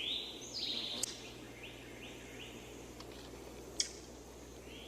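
Bird calls: a rising chirp, then a quick run of short chirps, with two sharp clicks about a second in and near the end, over a steady low background hum.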